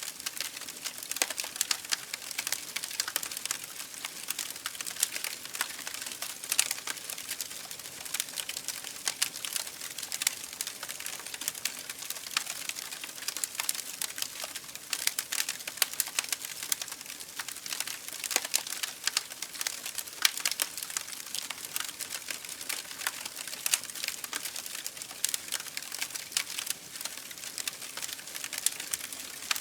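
Campfire burning with a dense, steady crackle of quick pops and snaps from the burning wood.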